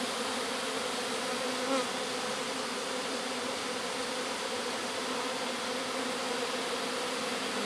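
Steady hum of a swarm of Italian honey bees in flight around the hive. One brief louder buzz rises in pitch just under two seconds in.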